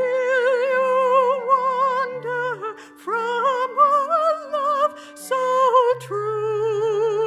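A woman's voice singing a slow hymn melody with a wide, even vibrato, over a keyboard accompaniment holding steady sustained chords. Phrases end with brief breaths near the middle and near the end.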